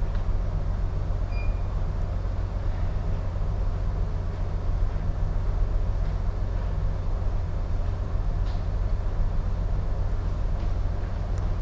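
Steady low rumble of a ship under way, heard on the bridge, with strong wind noise hissing over it.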